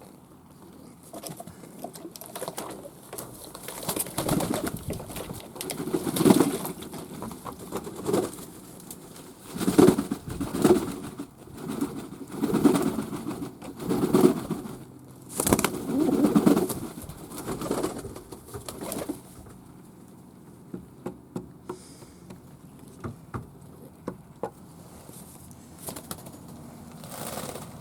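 Fantail pigeons cooing: a run of repeated low coos lasting about fifteen seconds, followed by a few short ticks.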